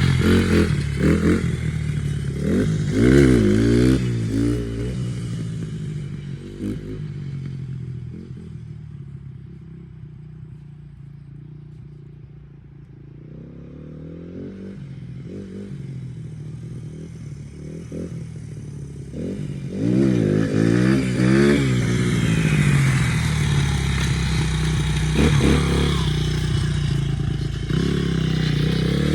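Dirt bike engine revving up and down, fading away over several seconds, then growing loud again as the bike comes back, with more hard revs in the last third.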